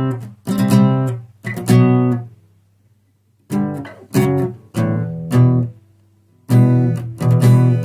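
Guitar playing short chord strikes in three phrases. There are four strikes in the first two seconds, then a pause, then six quicker strikes, another pause, and a denser run near the end.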